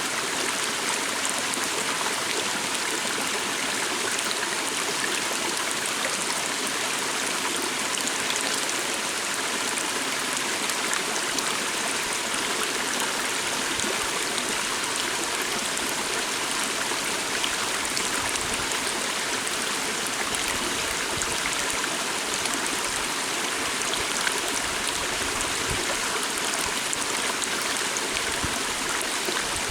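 Forest stream flowing, a steady, unbroken rush of water with small splashes and trickles.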